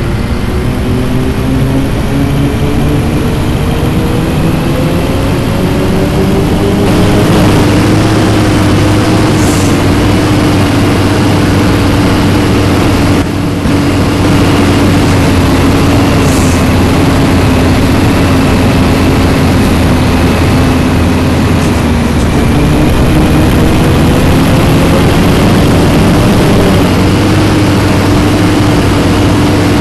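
Scania diesel city-bus engine pulling under load, heard from inside the bus: its pitch climbs over the first several seconds as the bus accelerates, then holds steady. There is a brief dip about thirteen seconds in, and the pitch climbs again a little after twenty seconds.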